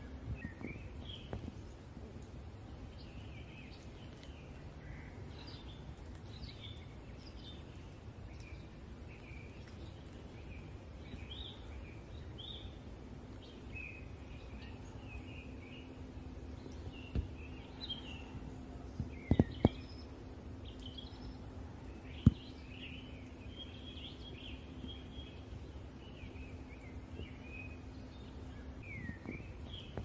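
Several songbirds chirping and singing in many short phrases. A few sharp knocks sound past the middle, over a low background rumble.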